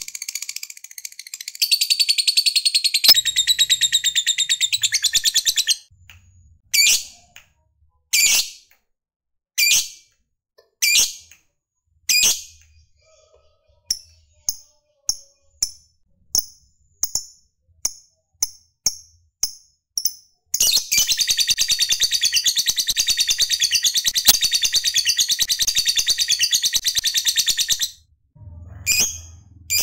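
Lovebird chattering: a long rapid trill (the "ngekek") lasting several seconds, then single sharp chirps about a second and a half apart, then quicker short chirps about two a second. Near the end comes a second long trill of about seven seconds.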